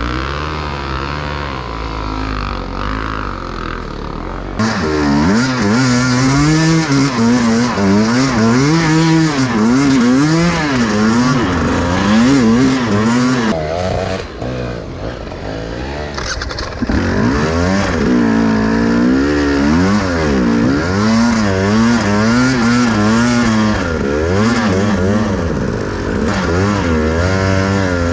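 Enduro motorcycle engine revving up and down over and over as the throttle is worked, the pitch rising and falling every second or so. The sound changes abruptly about four seconds in and again past halfway.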